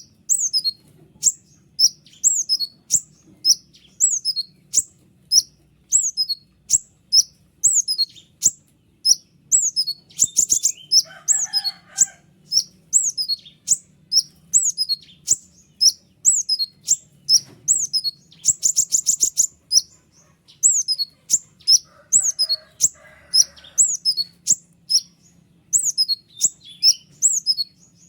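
A konin singing: sharp, high notes that sweep downward, repeated about twice a second. The run is broken twice by a fast, dense trill.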